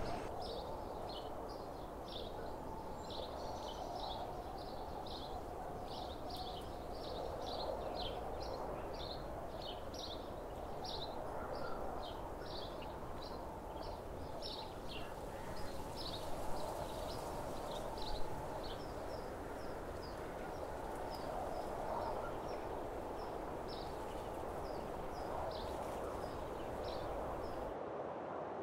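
Small birds chirping: many short high notes, two or three a second, over a steady outdoor hiss, with a couple of soft bumps about halfway through.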